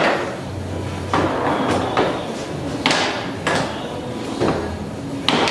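Sharp hard knocks and clacks of a ball or puck being struck and bouncing around a game table, about one a second and unevenly spaced.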